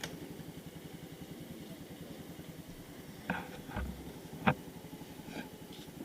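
Motorcycle engine idling steadily, freshly started and left to warm up before riding. A few sharp clicks sound over it, about three seconds in and again a second later, the second the loudest.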